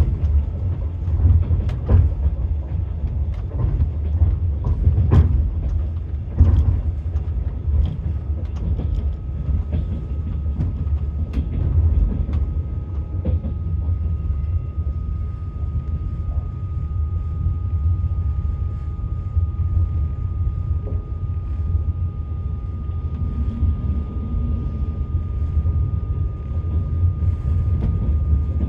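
Passenger train heard from inside the carriage: a steady low rumble of the running train with the clatter of the wheels over rail joints, the knocks sharpest and most frequent in the first several seconds. A faint steady whine comes in about eight seconds in.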